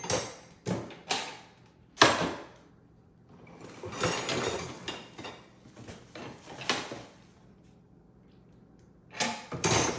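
Clicks, knocks and clatter of bird-feeder parts being handled and fitted together, with a sharp knock about two seconds in.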